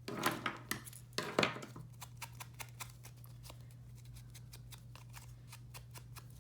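Scissors snipping paper, a quick run of small crisp clicks, with a couple of louder paper sounds in the first second and a half.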